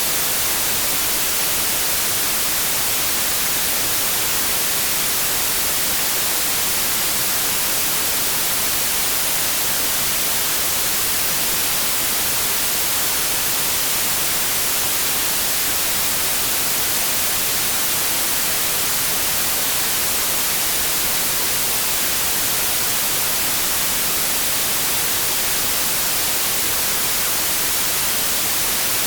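Synthetic white noise: a steady, unchanging hiss of static, brightest in the treble.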